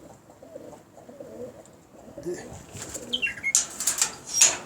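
Domestic pigeons cooing, with a few short high chirps, then wing flapping near the end.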